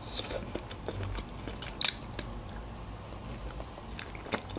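A person eating fried chicken wings: chewing with small wet mouth clicks, and one sharp crackle about two seconds in.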